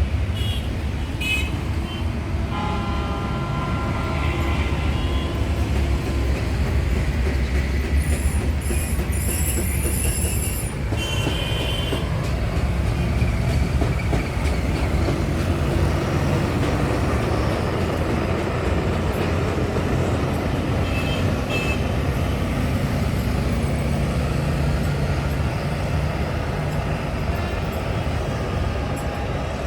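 Steady low rumble of running vehicle engines, with vehicle horns sounding several times in the first twelve seconds or so.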